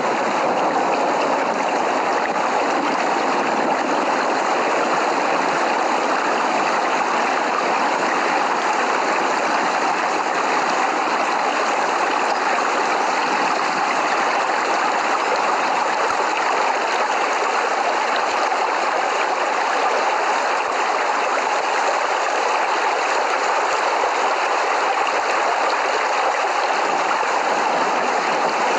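Steady rain falling, an even hiss that stays constant throughout, with no thunder.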